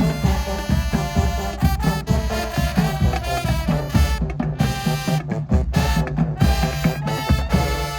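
Marching band of brass and drums playing a loud, brass-heavy tune over a steady drum beat, with short stop-time breaks in the second half.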